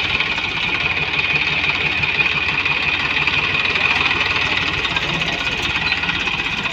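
Tractor diesel engine running steadily under a stuck, sand-loaded trolley, its firing beat even throughout.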